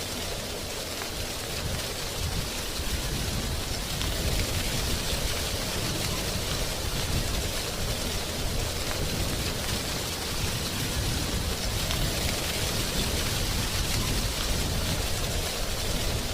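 Wind blowing through a tree's drying leaves: a steady, dense rustle with a low rumble of wind underneath.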